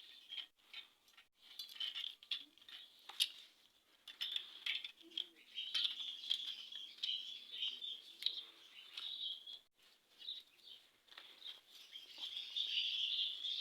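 Small birds chirping continuously in the background, over scattered light clicks and taps of metal engine parts being handled on the bench.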